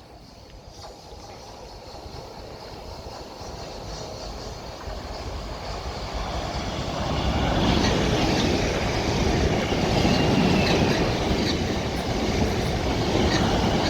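Two coupled Class 450 Desiro electric multiple units approaching at speed and running past. The sound of wheels on rail grows steadily and is loudest from about halfway through.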